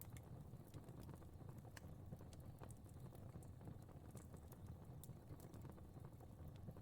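Fireplace fire crackling faintly: irregular sharp pops, a few a second, over a low steady rumble.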